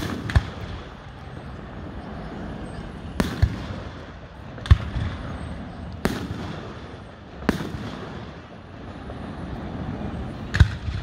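Aerial firework shells bursting overhead: a sharp bang every one to three seconds, each trailing off in a rolling echo, over a steady low rumble from the display.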